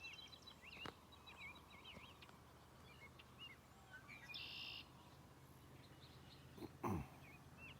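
Faint outdoor birdsong: many short chirps and whistles that sweep up and down, with a brief buzzy call about halfway through. A sharp knock comes near the end.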